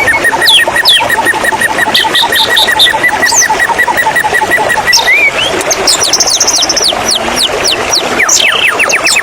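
White-rumped shama singing a loud, varied song: fast trills of evenly repeated notes, quick whistled sweeps and a high ringing phrase, over a steady rush of running water.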